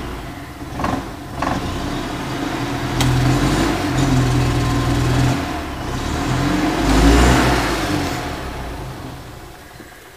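Small gasoline engine running after its first start since last fall, speeding up and slowing down unevenly, louder about seven seconds in, then fading away over the last couple of seconds.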